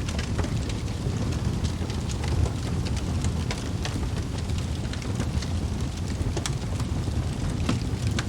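Wood fire burning in a fireplace: logs crackling with frequent sharp pops and snaps over a steady low rumble of the flames.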